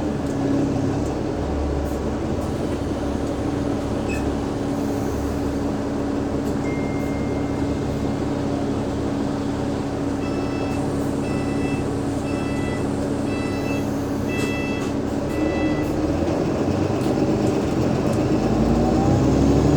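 Cabin sound of an Alexander Dennis Enviro500 MMC double-decker bus with a Cummins ISL diesel engine: a steady drone and rumble from the drivetrain. About halfway through, a string of about seven short electronic beeps sounds, and near the end the pitch of the drivetrain begins to glide and grow a little louder as the bus changes speed.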